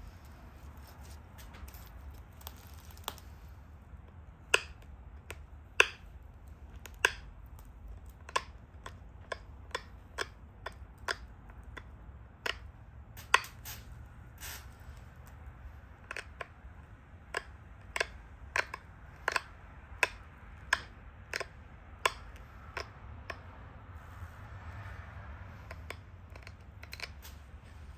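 Pressure flaking the edge of a stone Dalton point: a run of sharp clicks, roughly one a second, as small flakes snap off the stone.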